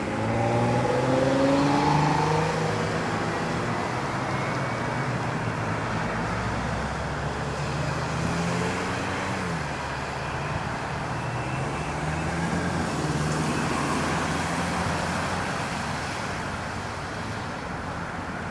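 GO Transit train's diesel locomotive running slowly, its engine tone rising over the first two or three seconds, then holding steady.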